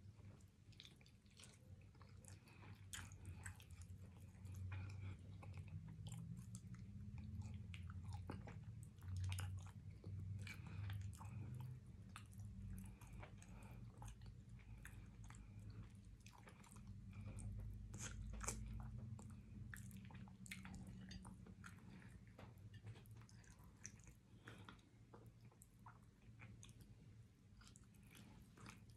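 A person chewing and biting neck bones eaten by hand, close to the microphone: quiet chewing with many small mouth clicks scattered throughout.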